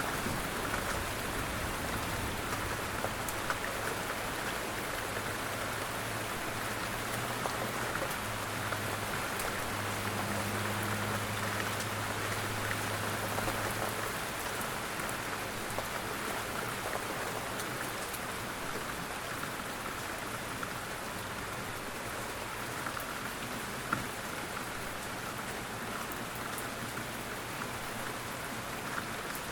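Steady rain falling, an even unbroken hiss and patter of drops with no thunder. A faint low hum runs under it for about the first half, then fades.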